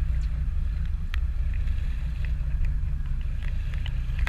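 Charter fishing boat's engine running steadily with a low hum, with wind on the microphone.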